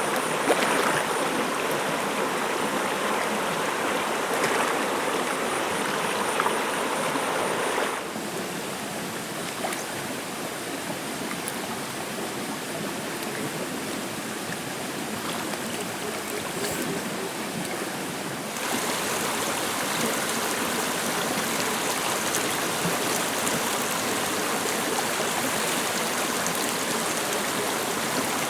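A stream flowing, a steady rush of running water. Its level and tone change abruptly twice, dropping about eight seconds in and rising again after about eighteen seconds.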